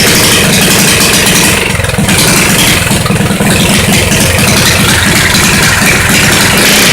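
Small single-cylinder Subaru 178 cc engine on a mini bike running loud through a homemade straight-pipe exhaust, its governor removed; the sound eases briefly twice, about two and three seconds in.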